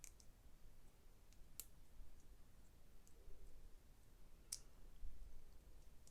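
Faint, sparse clicks of plastic Lego Technic pieces being handled and fitted together, a few separate clicks, the sharpest about one and a half and four and a half seconds in.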